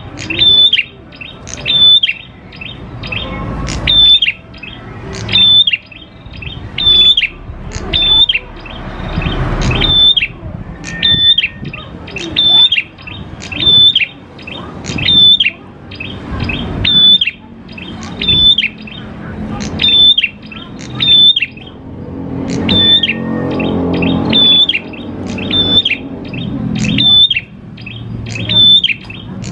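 Prenjak klawu (a prinia) calling over and over at a steady pace, about one loud, high, sharply falling call each second, with a low rumble underneath.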